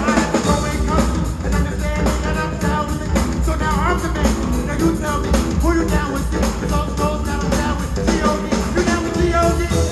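Live gospel band playing with drums, bass and guitar, with singing over a steady beat.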